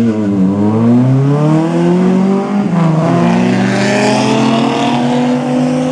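Two small cars' engines accelerating hard away from the start line, the pitch climbing steadily, dropping at a gear change about three seconds in, then climbing again more slowly.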